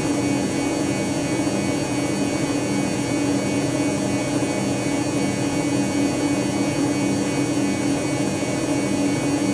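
Dyson Contrarotator CR01 washing machine running with a steady motor hum. A lower tone under it swells and fades about once a second.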